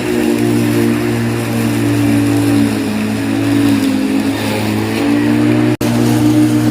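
Lawn mower running with a steady hum, its pitch sagging slightly about halfway through. The sound cuts out for an instant near the end.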